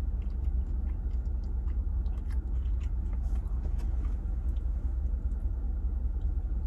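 Chewing a mouthful of potato-coated Korean corn dog, with faint small mouth clicks, over a steady low hum inside a vehicle's cabin.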